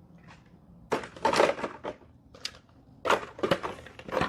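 Gear being handled and moved about: a run of short clatters and rustles, starting about a second in, with a brief pause before a busier stretch near the end.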